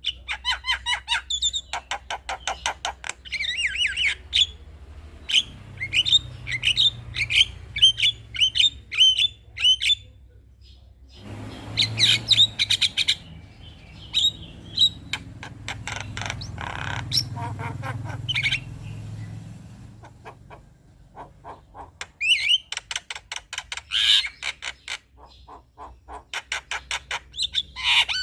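Male Javan myna (jalak kebo) chattering: bursts of rapid clicks and harsh squawks mixed with sharp whistled notes, broken by short pauses about ten seconds in and again about twenty seconds in. A faint low hum sits underneath through the middle.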